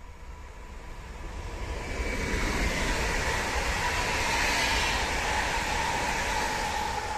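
PKP Intercity Stadler FLIRT 3 electric multiple unit passing at speed: steel wheels rushing on the rails, with a steady whine that drops slightly in pitch near the end as the train draws away. The noise swells over the first couple of seconds, then slowly fades.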